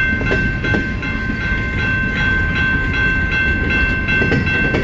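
Long CN freight train's cars rolling past: a steady low rumble with wheels clicking over rail joints, and a steady high-pitched tone held over it.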